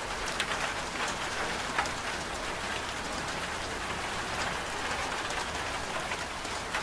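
Steady rain with many individual drops striking a surface; no machine hum under it.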